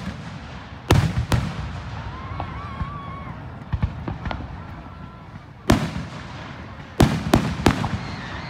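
Fireworks exploding in sharp bangs: two close together about a second in, one near six seconds, then three in quick succession around seven seconds.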